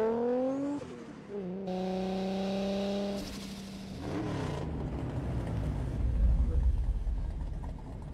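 Toyota Supra's engine revving up as it drives in, its pitch rising, then dropping as it shifts at about a second in and settling to a steady note. From about five seconds in a deep, louder rumble takes over, the V8 of a Dodge Charger muscle car.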